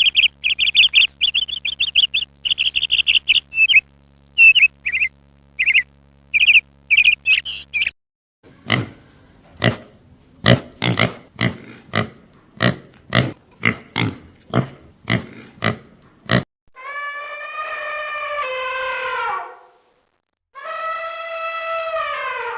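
A run of different animal calls: first quick high chirps over a steady low hum, then short sharp grunts about twice a second, then two long, low, drawn-out calls that drop in pitch at the end.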